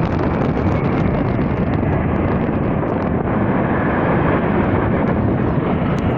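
Military aircraft flying over, heard as a steady rushing engine noise mixed with wind buffeting the microphone.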